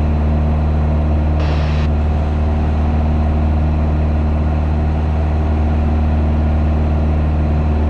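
Piper PA28's piston engine and propeller droning steadily in cruise, with a brief hiss about one and a half seconds in.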